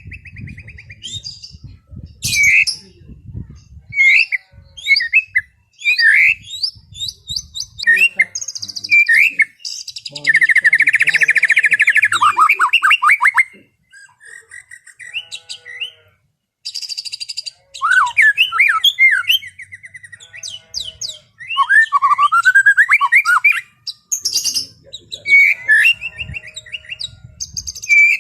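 White-rumped shama singing a long, varied song of sharp whistled notes, rising and falling sweeps and chatter, with a fast trill about ten seconds in that lasts some three seconds.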